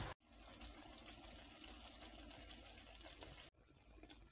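Faint, steady sizzle of semolina halwa cooking in butter and oil in a pan. It drops out briefly just after the start and again near the end.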